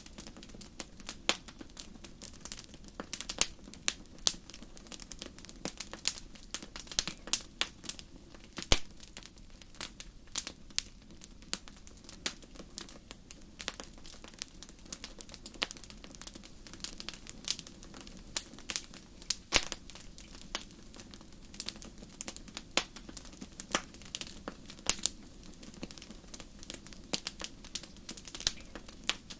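Campfire crackling: wood popping and snapping in irregular sharp cracks, several a second at times, over a steady low background noise.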